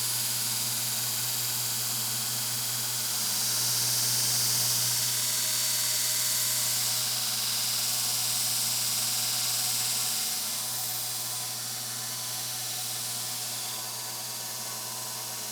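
A steady rushing hiss of air over a low electric motor hum, growing louder about three seconds in and easing off about ten seconds in.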